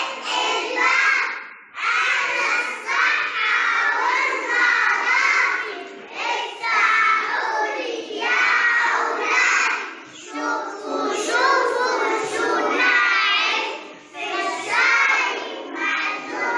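A group of young children singing a song together in Arabic, in phrases with short breaks between them.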